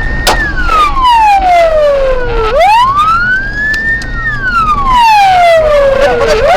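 Police car siren wailing, rising quickly and falling slowly in pitch about every four seconds, over a vehicle's engine rumble. A single sharp crack about a third of a second in.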